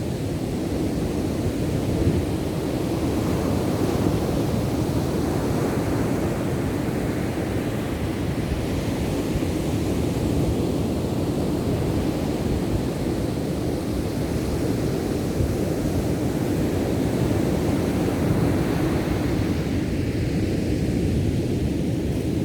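Ocean surf: a steady wash of breaking waves that swells and eases gently, with no distinct individual crashes.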